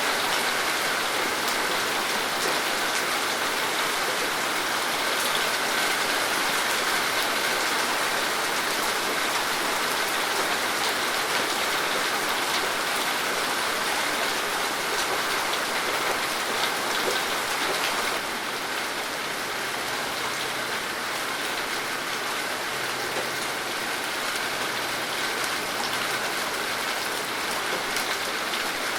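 Steady rain falling, with many individual drops ticking through the hiss. About two-thirds of the way through it turns slightly quieter and duller.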